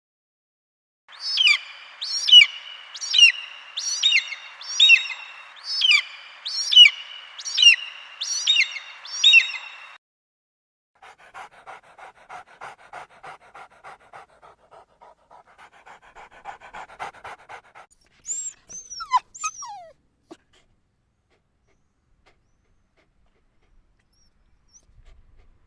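An animal calling: about ten high, hooked calls roughly once a second, then a quieter run of rapid short pulsed calls, and a few gliding calls near the end.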